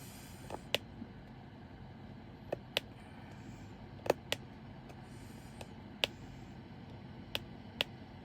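Diamond painting drill pen tapping drills down onto the sticky canvas: about nine sharp little clicks, singly and in quick pairs, a second or two apart, over a low steady room hum.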